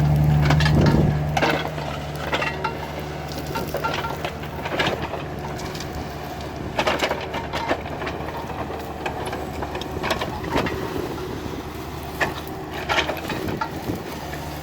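Heavy machine's diesel engine running steadily while a forest rake attachment tears through brush, with irregular cracks and knocks of wood and branches breaking. The engine is loudest in the first second or so.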